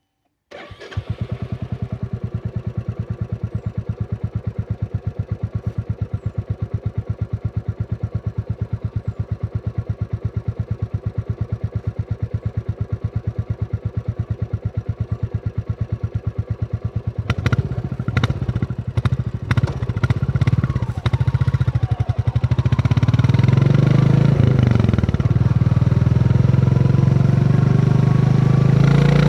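Royal Enfield Classic 350's single-cylinder engine starting about half a second in and idling with an even thump. Later come a few sharp clicks and changing revs, then it runs louder and steadier as the bike gets under way.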